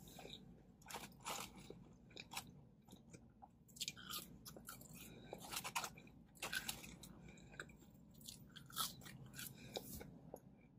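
A person chewing and eating fries and a sandwich, with faint, irregular crunches, wet mouth sounds and small clicks.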